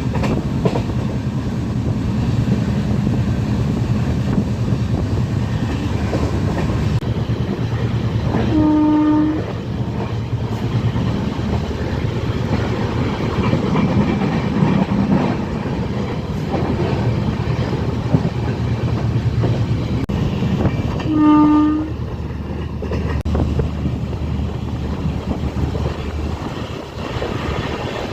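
Passenger train running on the rails, heard from a passenger coach: a steady rumble with wheel clatter. Two short blasts of the locomotive horn come about nine seconds in and again about twenty-one seconds in.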